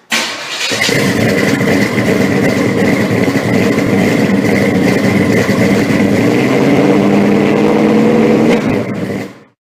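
Classic or muscle car engine running loud and steady, with a thin high whine over the engine note; it cuts off suddenly near the end.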